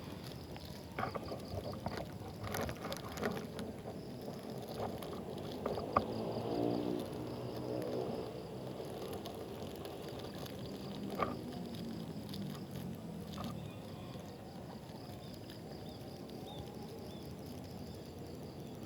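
Kayak paddling on a river, with a few sharp knocks of the paddle in the first seconds. An engine passes by about six seconds in, its hum falling in pitch and fading over several seconds, over faint steady insect chirping.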